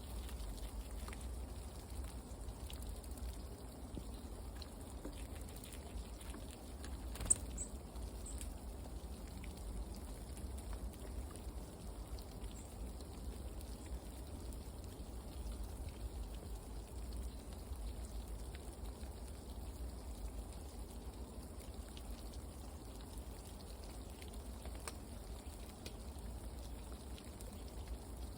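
Steady outdoor ambience of light pattering drops over a low rumble, with one sharp click about seven seconds in followed by a couple of faint, short, high chirps.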